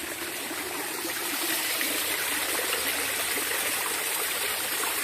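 Small waterfall and stream of water rushing steadily over rocks.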